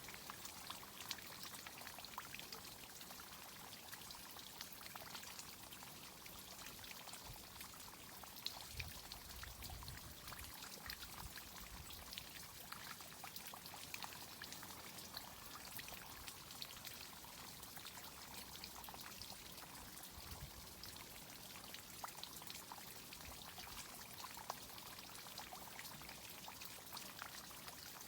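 Water from an outdoor tree-watering irrigation system pouring and trickling steadily, with many small droplet ticks scattered through the flow.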